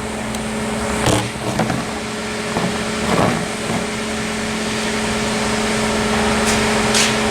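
A machine's motor starts up and runs with a steady hum that grows slowly louder, with a few short knocks and rustles over it.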